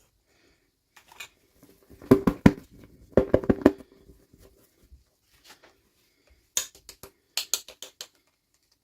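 Small objects being handled on a tabletop: two clusters of quick taps and knocks, then a run of sharper, brighter clicks near the end.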